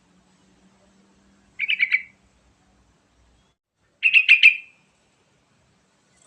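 Yellow-vented bulbul (trucukan) singing two short phrases of rapid notes about two seconds apart; the second is a little longer and louder.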